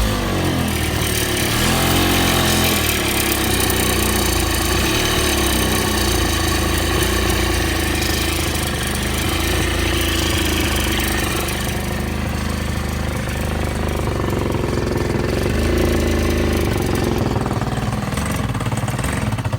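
Honda Dio AF27 scooter's 50 cc two-stroke engine running, rising briefly in speed a couple of times, with a ringing from inside the engine that the owner cannot explain. It is being run in on a freshly fitted cylinder-piston kit, bearings and seals.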